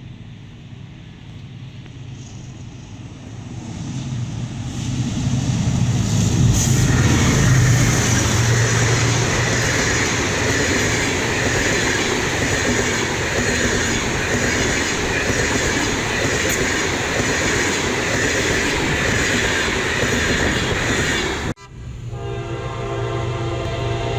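Diesel-hauled passenger train approaching and running past close by, its rumble and wheel noise growing to a loud, steady roar. About three seconds before the end the sound cuts abruptly, and the locomotive's horn sounds, a steady multi-note blast.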